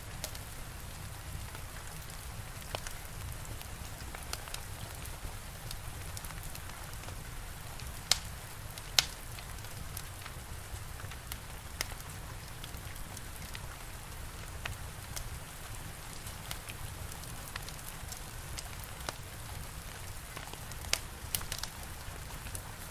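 Steady rain with a wood fire crackling over it: scattered sharp pops and snaps, the two loudest about a third of the way in and a few more near the end.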